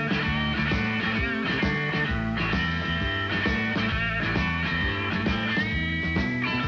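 Live blues-rock band playing an instrumental break: an electric guitar lead with bending notes, one held near the end, over bass and drums.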